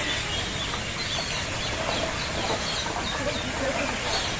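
Many birds calling at once: a busy chatter of short high chirps, with some lower calls joining about halfway through, over a steady low background noise.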